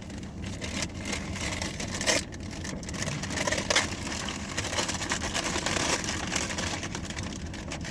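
Rustling and crinkling of paper and plastic food packaging being handled, with irregular crackles, over a steady low rumble.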